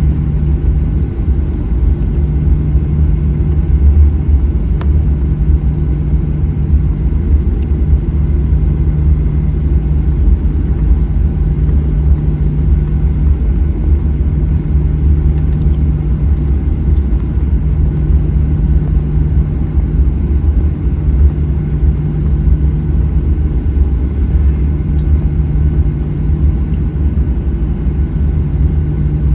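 Steady low rumble inside the cabin of a Boeing 737-900ER airliner, its engines running at a constant setting with a steady low hum underneath.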